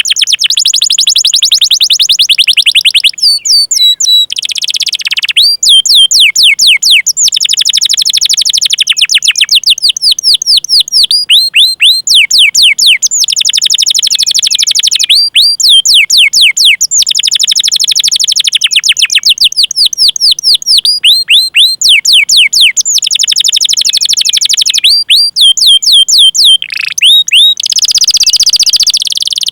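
Domestic canary singing a long, fast song: runs of rapid chirps that each sweep downward, repeated many times a second in rolling trills, broken by short pauses. It is the 'cuit cuit' rolling call used as a tutor song to prompt other canaries to sing.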